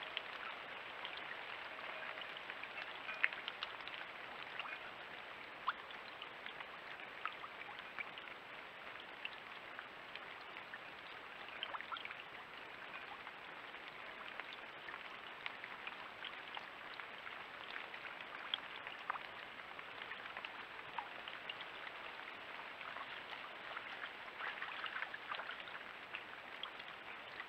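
Rain and a small brook running: a steady wash of water with scattered sharp drip ticks.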